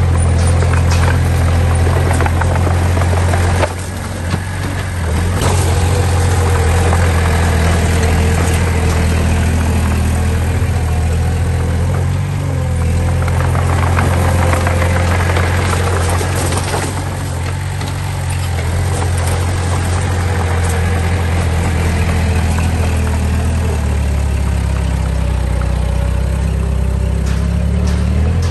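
Diesel engine of heavy earthmoving machinery running steadily under light load. It dips briefly about four seconds in and settles to a lower, steadier note near the end.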